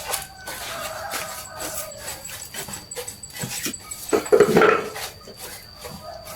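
A dog vocalising, loudest for about a second around four seconds in, over repeated light clicks and knocks and a faint steady high tone.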